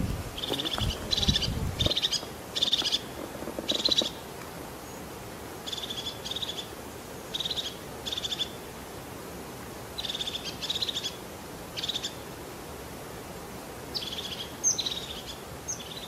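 A bird calling: short, raspy, rattling notes, mostly in pairs, repeated every second or two. Low rumbling, like wind on the microphone, runs under the first two seconds.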